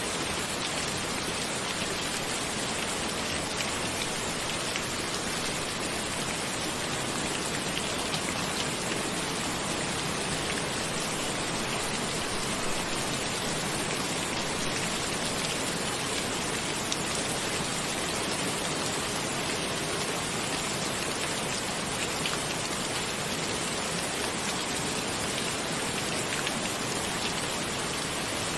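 Steady rain falling, with scattered individual drop ticks in the even hiss.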